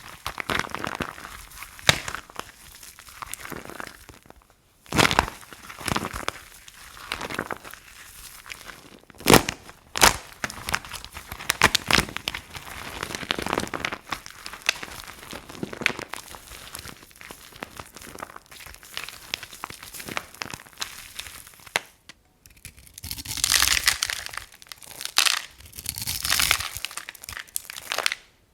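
Dry soap being crushed and cut, a dense crisp crunching and crackling broken by several sharp snaps. It comes in separate takes, with short silent breaks about 5 seconds in and near the end.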